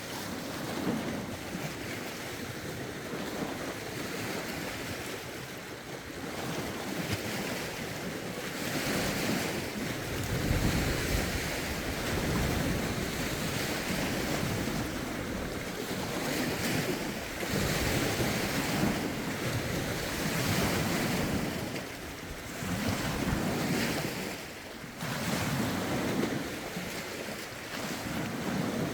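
Lake waves washing against the shore in rough wind, swelling and falling away in irregular surges every second or two, with wind buffeting the microphone.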